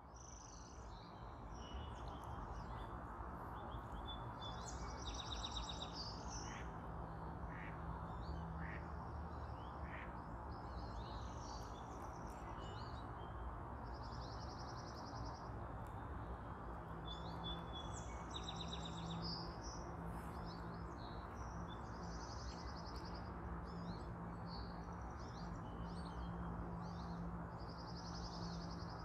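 Wild birds chirping and trilling again and again, short high calls and buzzy trills scattered throughout, over a steady low background rumble with a faint hum.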